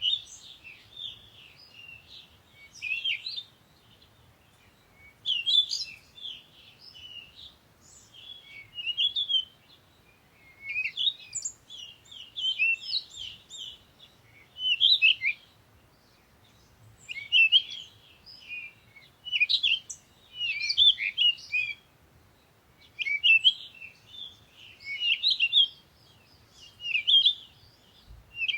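Birdsong: bursts of quick, high chirps and twitters about every two to three seconds, with short pauses between.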